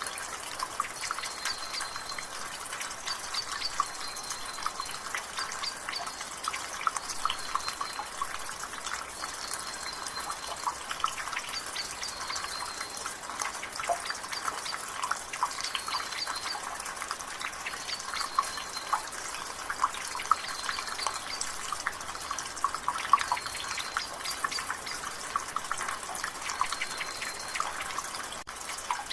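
Rainwater dripping and splattering from a gutter in steady rain, a dense run of small drips. Behind it a bird repeats a short high call every second or two.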